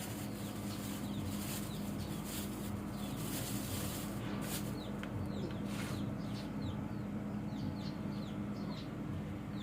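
Birds chirping, with many short high falling calls scattered throughout, over a steady low hum.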